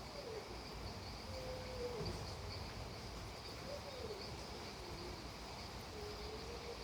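Night nature ambience: steady high insect chirring over a soft even hiss, with a bird giving low, sliding hoot-like calls about five times.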